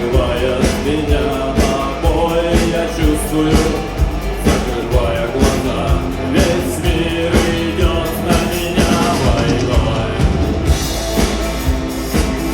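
A live rock band playing: a drum kit keeping a steady beat under electric guitars.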